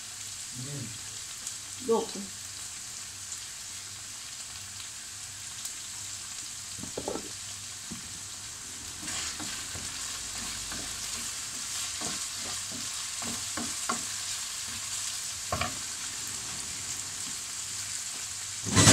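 Liver frying in a pan, sizzling with a steady hiss, with scattered clicks and knocks of a utensil stirring it, most of them in the second half and a louder clatter at the very end.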